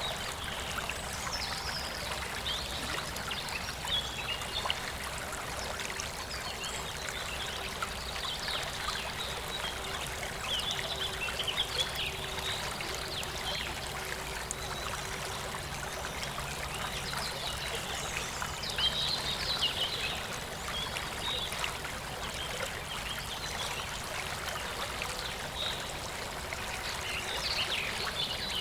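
Shallow, clear stream water flowing and babbling steadily over stones, with scattered brief louder splashes.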